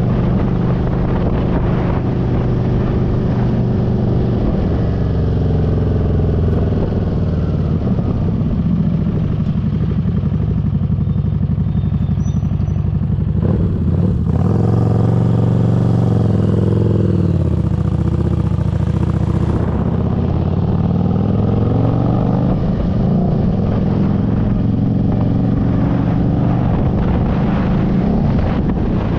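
Motorcycle engine running while riding, its pitch rising and falling several times as the throttle changes.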